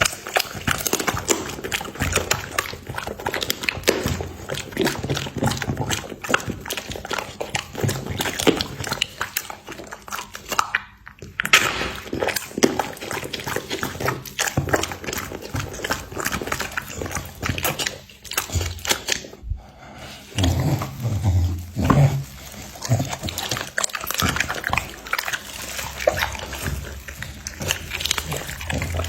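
A bully-breed dog eating meat: wet chewing and smacking, with slurping and an irregular run of clicks and bites.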